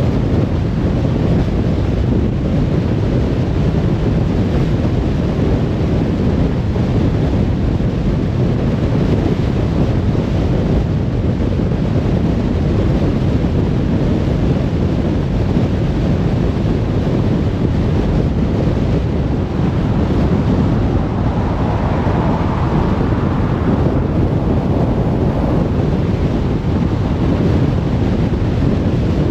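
Steady road and wind noise of a car cruising on a motorway, a deep even rumble of tyres and air, with a slight swell in the hiss about two-thirds of the way through.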